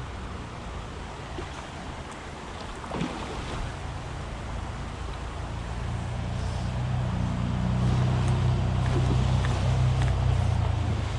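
Low engine hum with wind on the microphone; the hum grows louder through the middle and eases off near the end.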